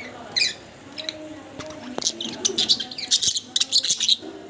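Pet budgerigars chirping and chattering, with one chirp near the start and a quick, dense run of sharp chirps in the second half.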